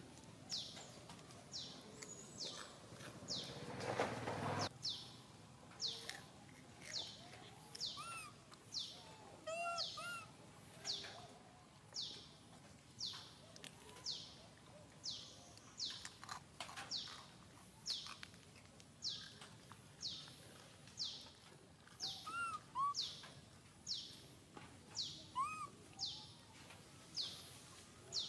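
A bird repeats a short, high, falling chirp about once a second. An infant macaque gives a few thin rising-and-falling squeaks now and then. A brief burst of noise comes about four seconds in.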